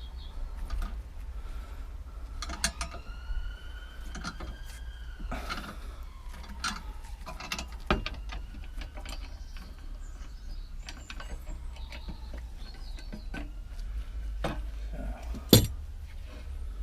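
Metal parts being handled and turned: scattered clicks and clanks with a brief squeaky scrape in the first few seconds, and one sharp metallic knock near the end, over a steady low hum.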